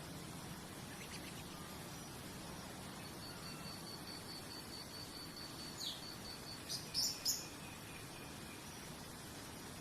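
Crickets chirping in a steady pulsed trill that drops out and returns, over a constant background hiss. A bird gives a short falling call about six seconds in, then a quick run of sharp, louder chirps about a second later.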